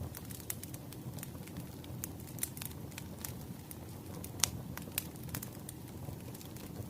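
Wood fire crackling: irregular sharp pops and snaps over a steady low rumble, the loudest pop about four seconds in.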